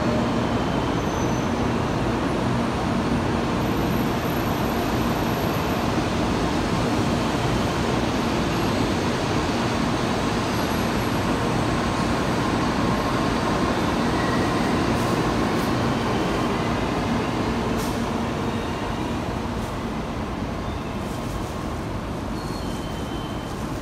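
Tokaido Shinkansen train pulling out of the station platform: a steady rumble that fades over the last few seconds as the train leaves.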